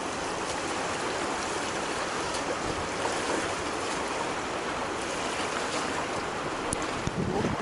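Steady rushing of river water, an even hiss without a clear pitch.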